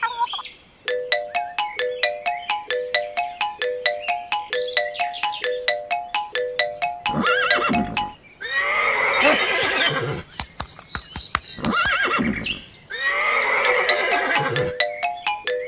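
Light background music repeating a short rising three-note figure, with recorded horse whinnies over it: one about halfway through that runs for several seconds and another shortly before the end.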